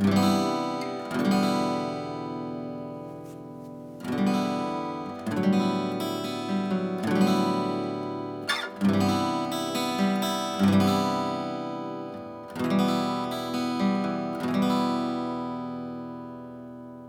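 1977 Takamine TW60 Elite acoustic guitar with a solid Sitka spruce top, played in slow strummed chords, each left to ring and die away before the next; the last chord fades out near the end.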